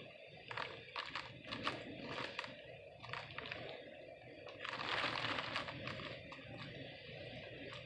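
Hurricane storm noise: a steady rush with a run of sharp clicks and cracks in the first few seconds, and a louder hissing gust about five seconds in.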